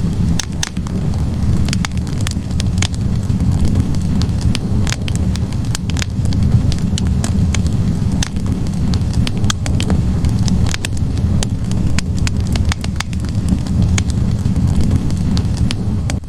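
Wood fire burning in a fireplace: a steady low roar of flames under frequent, irregular sharp crackles and pops from the burning logs.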